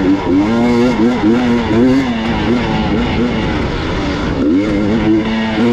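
Gas Gas EX 300 two-stroke enduro motorcycle engine under riding load, its revs rising and falling in quick surges about twice a second as the throttle is worked.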